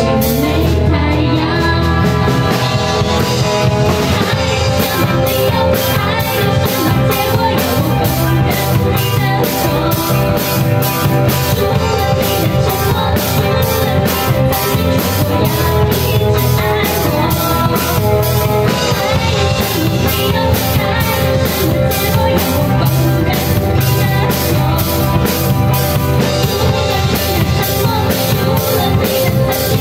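Live band playing a pop-rock song: a drum kit keeps a steady beat under guitar, with a voice singing.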